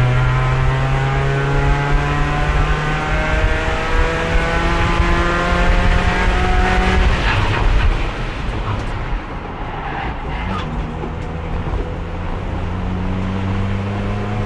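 Race car engine heard onboard, running in fourth gear with revs climbing slowly, then lifting off at about eight seconds to a quieter, lower note with a few clicks before the revs rise again near the end. It stays in fourth because the failing transmission has no third gear and won't shift at speed.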